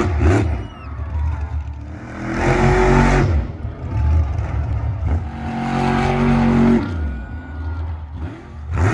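Monster truck engines revving hard, climbing and dropping in pitch in several bursts a few seconds apart.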